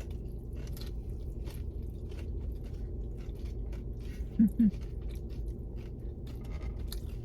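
Close-up eating sounds: tacos being bitten and chewed, with many small crunches and mouth clicks, over a low steady rumble. A short hummed 'mm' comes about halfway through.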